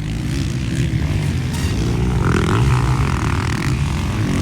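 Motocross motorcycle engines running, rising and falling in pitch with the throttle.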